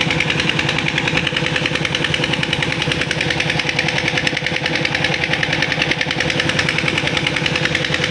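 Old tractor engine running steadily with a fast, even knocking beat.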